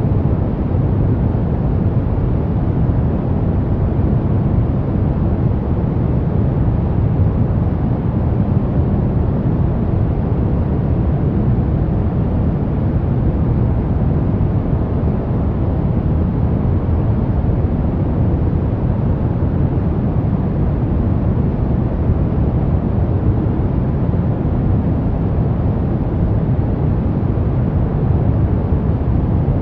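Steady pink noise: an even, unchanging rushing hiss, heaviest in the low end.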